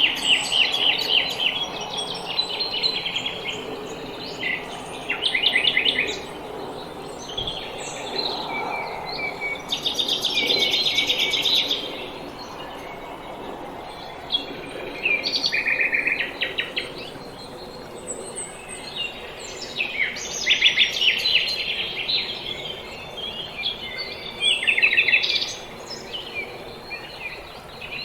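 Several small songbirds singing in spring: short rapid trills and chirping phrases, one after another every couple of seconds and sometimes overlapping, over a faint steady background hiss.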